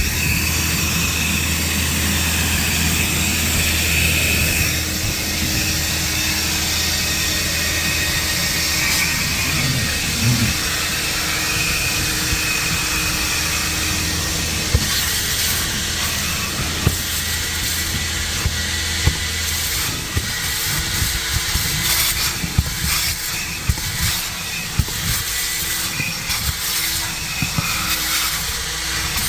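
Car wash vacuum running: a steady hiss of air rushing through the hose, with scattered knocks and clicks of the nozzle. A low hum underneath stops about two-thirds of the way through.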